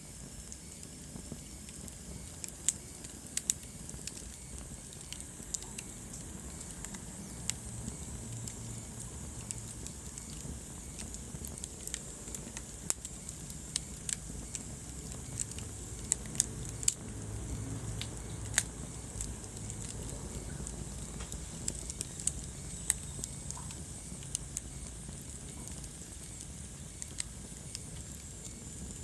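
Wood fire burning in a fireplace: a steady low hiss and rumble of flames with frequent irregular sharp crackles and pops from the burning logs.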